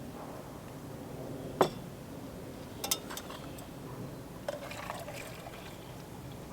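Liquid being poured, a steady low trickle, with a few sharp clinks.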